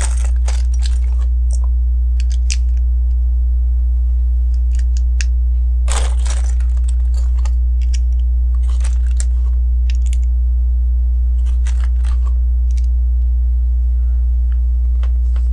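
Plastic LEGO bricks and plates being handled and pressed together: scattered light clicks and small rattles, with a longer rustle about six seconds in, over a steady low hum.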